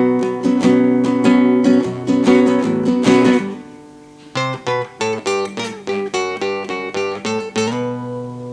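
Acoustic guitar playing an instrumental passage: rhythmic strummed chords, then after a short drop about four seconds in, a run of single picked notes, ending on a held chord that rings out.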